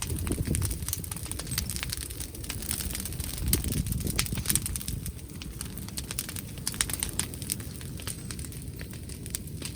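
Wood bonfire crackling: irregular sharp pops and snaps over a low rumble, the rumble easing after the first few seconds.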